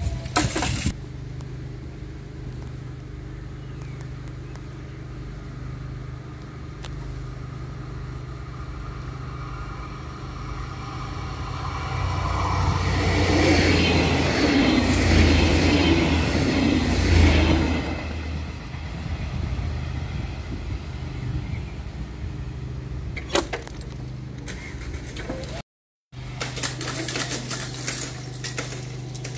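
A start-liveried regional train passes close by at a level crossing. Its rumble and wheel noise build from about ten seconds in, stay loudest for several seconds, then fade away. A steady low hum runs underneath, and the sound cuts out briefly near the end.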